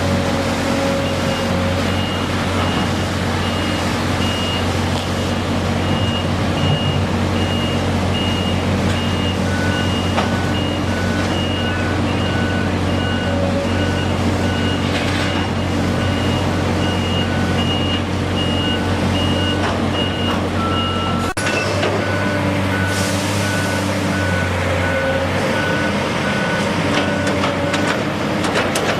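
Backup alarms on construction vehicles: two reversing beepers at different pitches sound steady repeating beeps and overlap for a while, over the steady drone of diesel engines. The higher beeper stops about two-thirds of the way through, and the lower one carries on nearly to the end.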